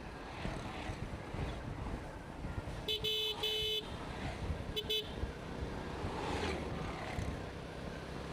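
A vehicle horn honks twice about three seconds in, then gives two short beeps about a second later. Underneath runs the steady noise of a motorcycle engine and the road.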